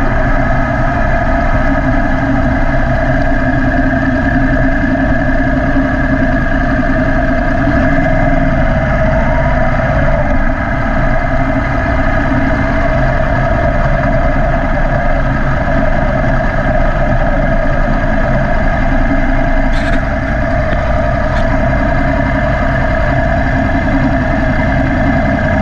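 Yamaha YZF-R1 crossplane inline-four running at steady revs through an Akrapovic exhaust, with a slight rise and fall in pitch about eight to ten seconds in. A short click comes about twenty seconds in.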